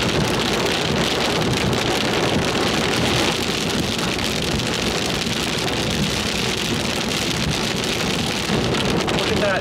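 Steady noise of rain on a moving car and its tyres on the wet road, heard from inside the car.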